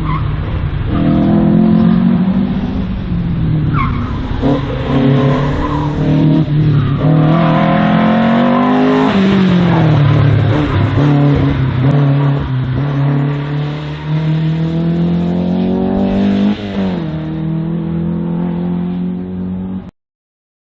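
Slalom race car's engine working hard through a run, its pitch rising and dropping repeatedly with throttle and gear changes, with tyres squealing and skidding through the turns. The sound cuts off suddenly near the end.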